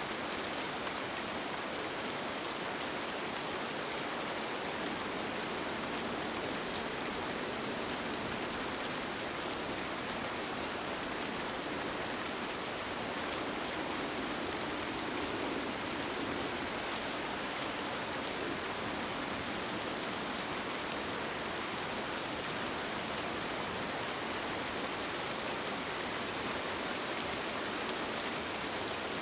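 Steady rain falling on a tent, an even hiss with many small drops ticking on the fabric.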